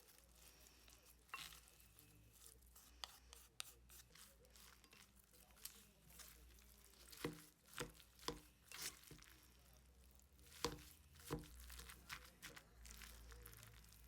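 Tableware clicking and tapping: a dozen or so irregular soft taps of a utensil against dishes, a few with a short ring, the busiest stretch about two-thirds of the way through.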